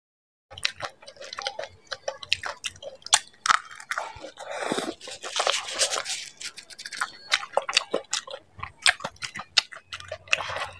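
Chewing and crunching of dahi puri: crisp fried puri shells cracking between the teeth in many sharp crunches, with wetter chewing of the yogurt-filled mouthful in the middle. It begins after a brief dead-silent gap.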